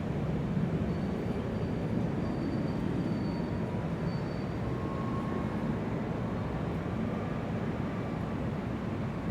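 Large airport terminal ambience: a steady, even low rumble of the hall, with faint thin tones drifting through, a high one from about a second in and a lower one past the middle.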